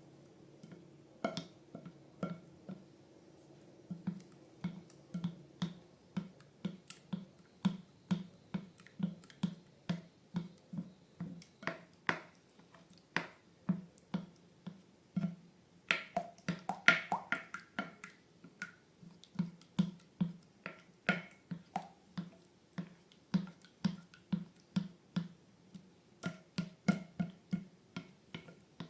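Slime being squeezed and kneaded by hand, making a steady run of sticky clicks and pops, about two or three a second.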